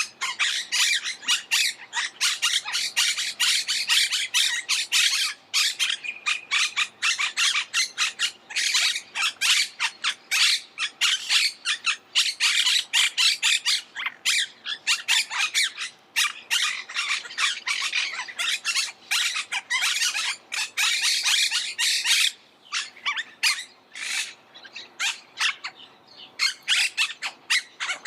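Monk parakeets (Myiopsitta monachus) squawking and chattering: a continuous stream of rapid, harsh, overlapping calls from several birds, thinning out into shorter bursts near the end.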